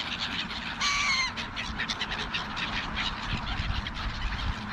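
A single short, harsh bird call about a second in, with many faint short chirps and ticks from birds at a feeding spot around it and a low rumble underneath.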